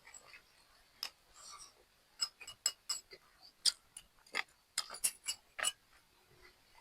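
Chopsticks and utensils clicking and clinking against a bowl during a meal: about a dozen irregular sharp taps.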